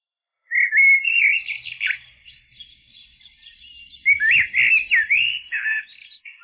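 Songbird singing: a phrase of quick, swooping whistled notes starting about half a second in, quieter chirps, then a second phrase about four seconds in.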